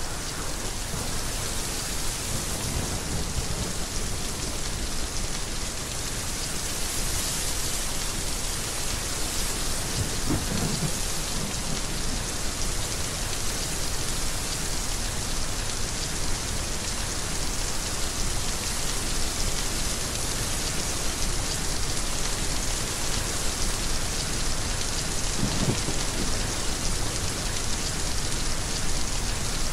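Heavy rain falling steadily, with low rumbles of thunder twice, about a third of the way in and again near the end.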